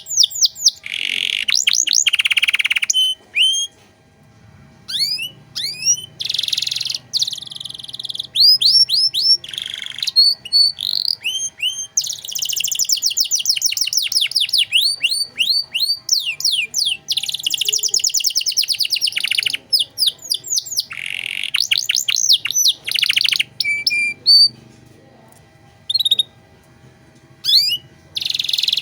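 Domestic canary singing a long, elaborate song: fast trills of rapidly repeated falling whistles and rolling phrases, broken by short pauses, with a quieter patch of a few scattered notes near the end.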